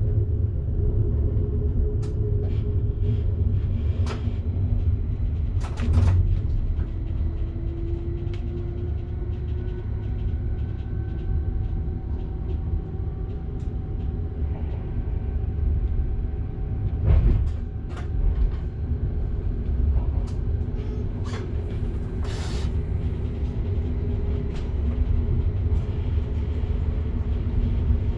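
Passenger train running, heard from inside the driver's cab: a steady low rumble from the wheels on the track, with scattered sharp clicks and knocks.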